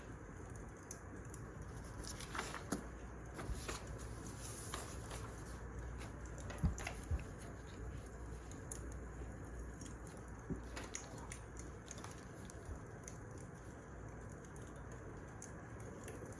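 Wood fire crackling: a steady low hiss with irregular sharp pops and snaps, one louder pair of pops near the middle.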